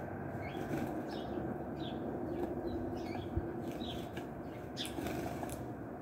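Small birds chirping in short repeated notes over a steady low background noise, with a quick flutter of wings near the end as a bird lands.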